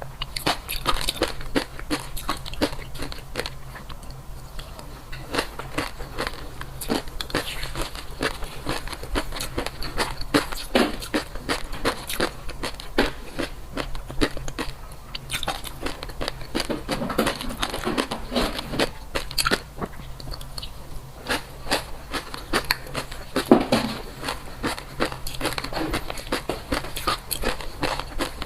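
A person biting and chewing crunchy food close to the microphone: a dense, uneven run of crisp crunches and crackles.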